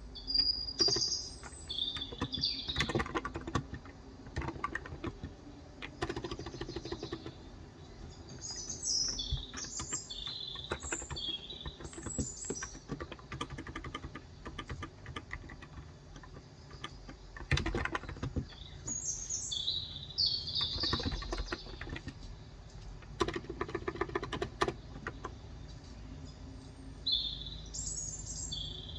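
Typing on a Cox Endeavour electro-capacitive (non-contact) 35 g tenkeyless keyboard, a dense, uneven run of key clicks throughout. Birds chirp in short bouts over it, about four times.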